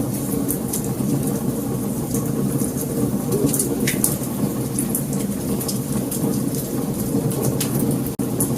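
Wood fire burning: a steady low rumble of flames with frequent sharp crackles and pops scattered throughout. The sound cuts out for an instant near the end.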